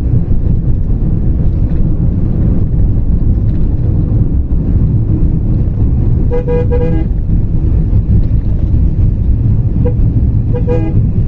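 Road vehicle horn honking for about a second midway, then a short toot near the end, over the steady low rumble of a moving vehicle.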